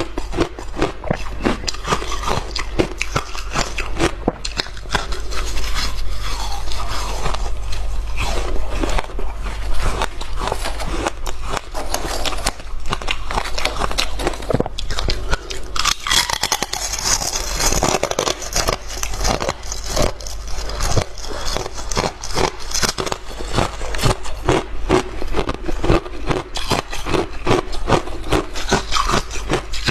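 A person biting and chewing hard frozen ice close to the microphone: continuous crunching and cracking, with a denser, brighter stretch of crackle about halfway through.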